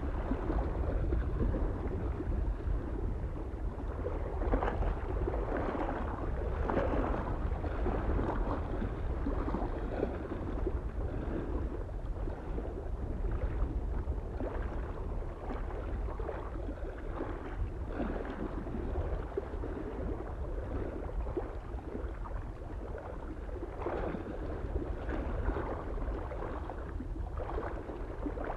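Small lake waves lapping irregularly against the shore in uneven splashes, over a steady low rumble of soft wind.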